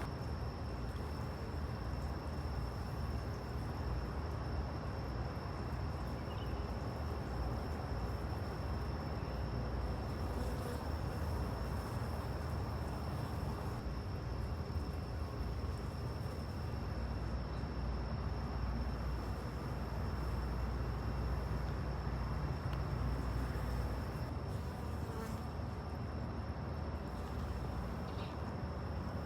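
Honey bees buzzing steadily, with a thin, steady high-pitched tone behind them.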